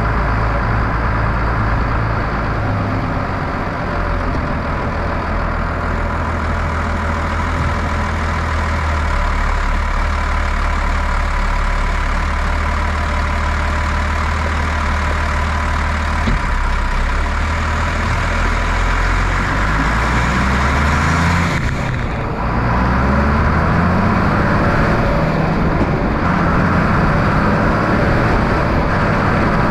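Tractor engine running steadily. About 22 seconds in it dips briefly, then keeps running with its pitch rising and falling as the revs change.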